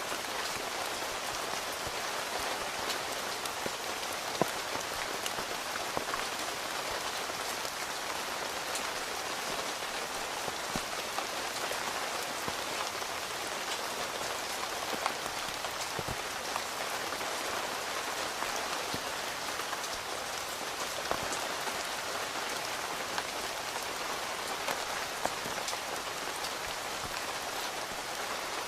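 Steady rain on a tent, heard from inside, with a handful of louder single drops hitting the fabric now and then.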